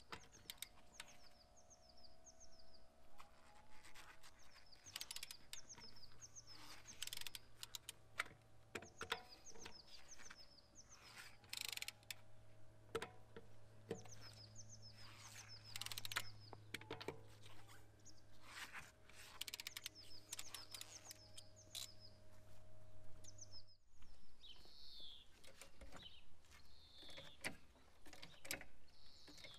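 Small birds chirping in short, repeated high phrases, with scattered sharp clicks and knocks. Under them a faint, steady low hum stops abruptly about 24 seconds in.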